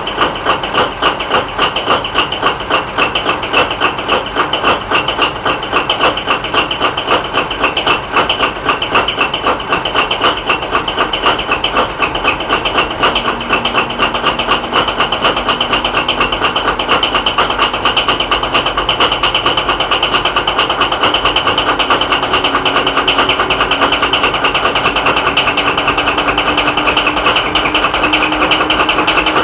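Paxman VP185 diesel engine of a Class 43 HST power car idling with a rapid, even clatter. A faint tone creeps slowly upward in pitch through the second half.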